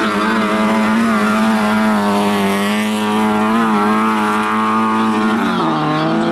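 Lada 2107 rally car's engine running hard as the car slides through a dirt-track corner, its note held steady with a slight waver, then falling in pitch about five and a half seconds in.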